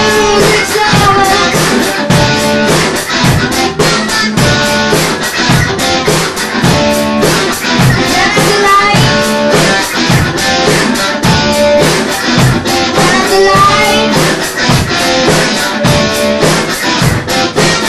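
Alternative rock band playing, with electric guitar and a drum kit keeping a steady beat.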